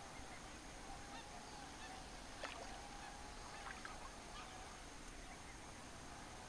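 Flock of geese honking faintly in scattered calls, with a single sharp knock about two and a half seconds in.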